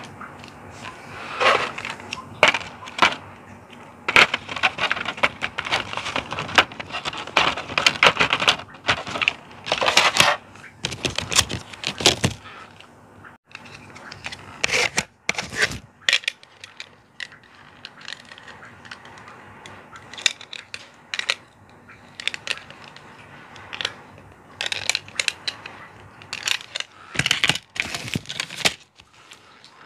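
Clear plastic packaging and small plastic action-figure parts being handled, crackling and clicking in irregular spells.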